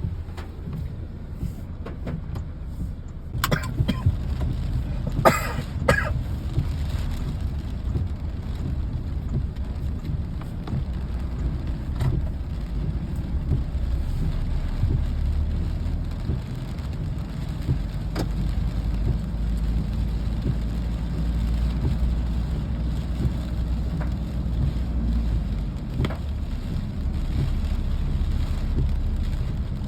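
Steady rain falling, under a deep low rumble. A few short, sharp sounds come about four to six seconds in.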